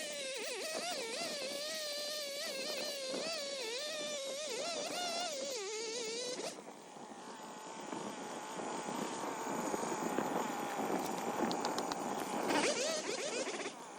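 Two-stroke chainsaw cutting through maple, its engine pitch wavering up and down under load. About six and a half seconds in the sound drops suddenly and carries on at a steadier, higher pitch, with a short surge near the end. The owner says the saw is running lean and needs its carburettor tuned.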